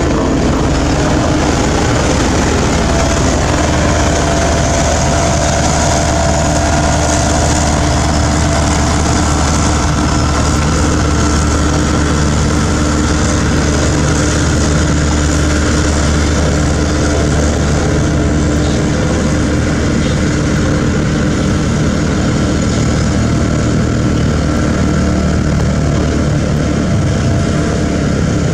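Tandem road roller's engine running steadily, a continuous heavy mechanical rumble with a steady hum.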